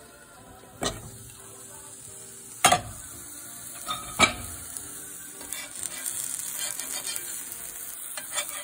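Kimchi pancake batter frying in fat on a hot griddle. A high sizzle grows louder through the second half. Three sharp clacks of a cooking utensil against the pan come in the first half.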